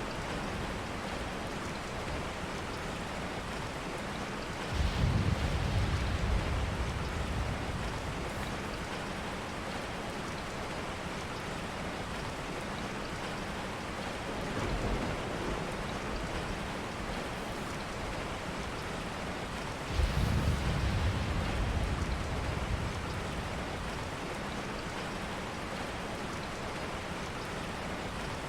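Steady rain. A short low rumble comes about five seconds in and again about twenty seconds in, with a fainter one in between.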